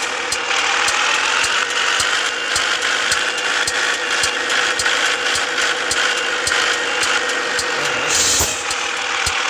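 Scania S 450 truck running on the road, heard from inside the cab: a steady drivetrain whine that dips and rises in pitch, with continual rattling clicks from the cab. A short hiss comes about eight seconds in.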